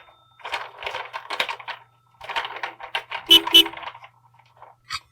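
Two bursts of quick light clicks and taps from toys and sand tools being handled, with two louder, ringing clicks a little past three seconds in.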